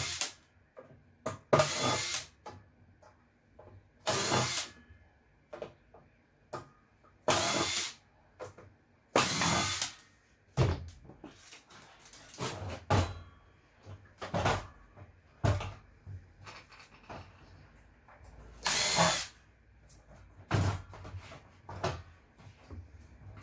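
A power drill running in short bursts, a dozen or so spaced irregularly, with small clicks and knocks of handling in between.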